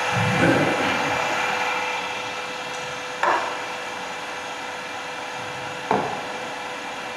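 Wood lathe running with a turning tool cutting a spinning wood blank, a steady hum and cutting noise. There are two sharp clicks, about three and six seconds in.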